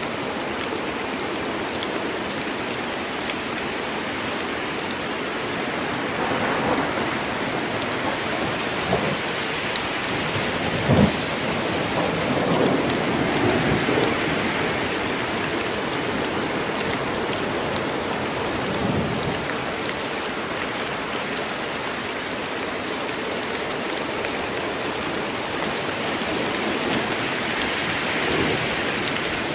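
Steady rain falling in a forest, with a sharp crack of thunder about a third of the way through and low rumbles swelling around it.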